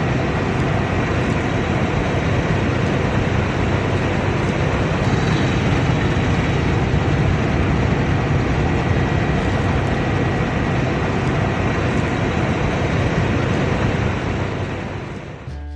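Combine harvester running at work: a steady, loud engine-and-machinery drone with a thin high whine over it, fading out in the last second.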